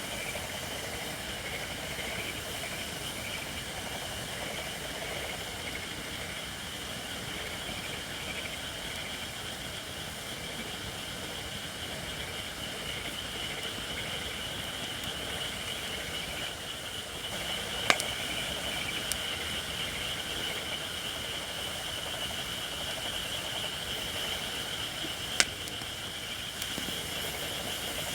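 Campfire of Japanese white oak (shirakashi) logs burning with a steady hiss of steam from wood not yet fully dried, with two sharp pops, one past the middle and one near the end.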